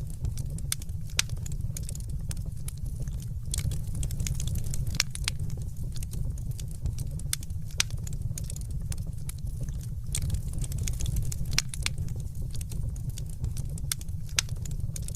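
Fireplace fire crackling: frequent irregular sharp pops over a steady low rumble.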